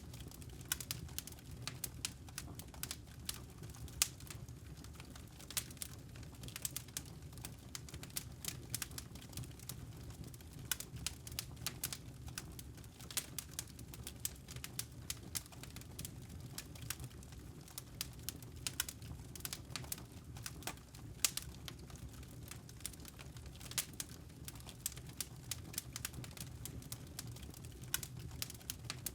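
Campfire crackling: burning wood logs with frequent irregular sharp pops over a low steady rumble.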